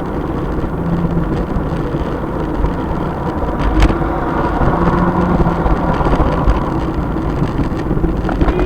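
Car driving, heard by its dash camera: steady engine and road noise, with a short click about four seconds in.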